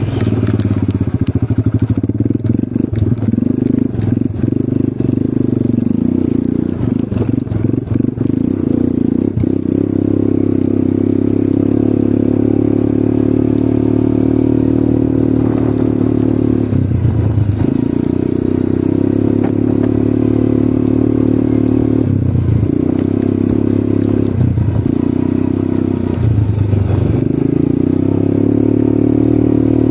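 ATV engine running steadily under way, with rattling knocks in the first third. After about halfway its note drops briefly several times as the throttle eases off and comes back on.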